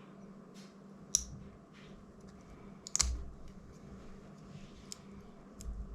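Small hand tools clicking and ticking against the plastic parts of a DJI Mini 2 drone as it is taken apart. Two sharper clicks come about two seconds apart among fainter ticks, over a faint steady hum.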